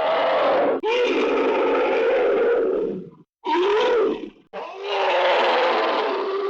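Hanna-Barbera cartoon sound effects: three loud, rough, noisy sounds with a wavering pitch. The first lasts about three seconds and the next two follow after short breaks.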